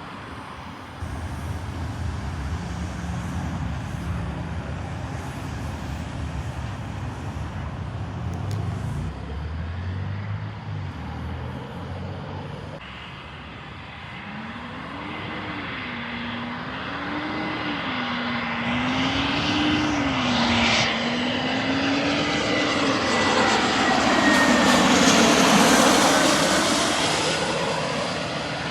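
An airplane passing close overhead: its engine noise builds over several seconds to a peak a few seconds before the end, then starts to fade.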